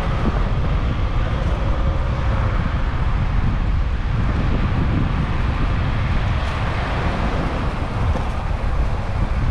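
Steady rumble of wind and road noise on a bicycle-mounted GoPro while riding, mixed with motor traffic.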